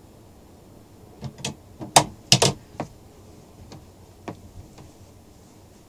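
A series of sharp clicks and knocks: a few light ones, a loud pair about two seconds in, then scattered lighter taps.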